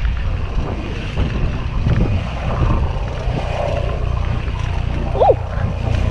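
Wind buffeting the microphone: a steady low rumble. About five seconds in, a short call rises and then falls in pitch.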